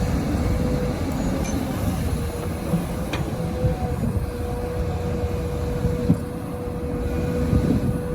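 Hydraulic excavator working: a steady diesel engine rumble with a thin, steady high whine on top, and a couple of short sharp clicks.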